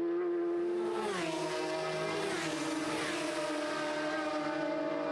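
Racing motorcycle engine running at high revs. Its pitch drops about a second in, followed by a few brief rising and falling sweeps.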